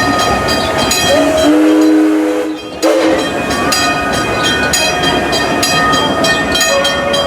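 Locomotive whistle on the Six Flags railroad's green train, one blast of about a second and a half sounding a chord of several notes. It plays over the steady, rhythmic running noise of the moving train.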